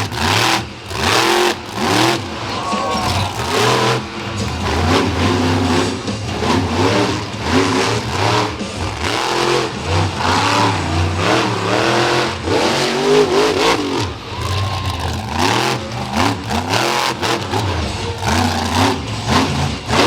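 Monster truck engine revving hard again and again, its pitch rising and falling with each stab of the throttle, over a low rumble.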